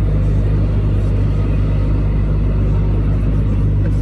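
Steady low drone of a lorry's engine and road noise heard from inside the moving cab.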